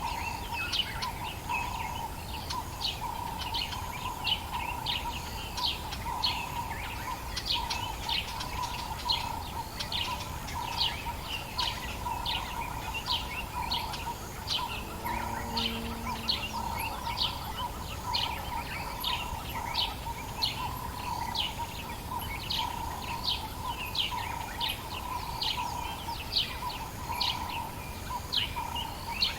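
Dawn chorus of wild birds in the African bush: many short, sharp chirps overlap throughout, about two a second, over a steady droning tone and a faint background hiss. A brief low call sounds about halfway through.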